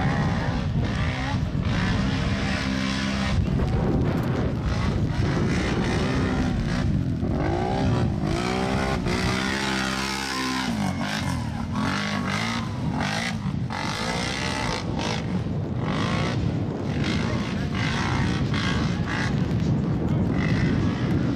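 Racing ATV engines revving hard and passing at speed, their pitch rising and falling over and over, with the sweeps strongest around the middle.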